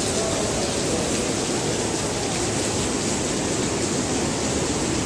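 Heavy rain and running water making a steady, even rush with no let-up.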